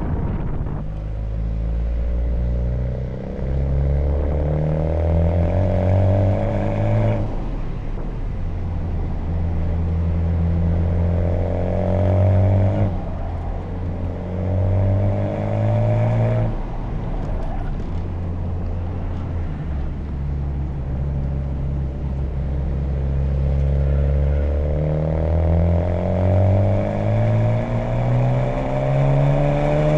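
Honda Civic Type R FK8's 2.0-litre turbocharged four-cylinder through an HKS Legamax exhaust, accelerating hard with rising pitch and dropping sharply at upshifts about seven, thirteen and sixteen seconds in. It then holds lower and steadier for a few seconds before climbing again near the end.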